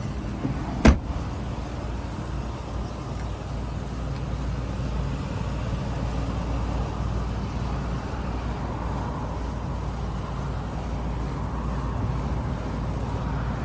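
Motor vehicle engine running steadily, a low rumble. A single sharp knock stands out about a second in.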